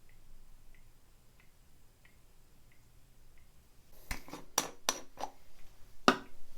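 Faint, regular ticking, about three ticks every two seconds, then a quick run of sharp clicks and knocks from small objects being handled, the loudest one near the end.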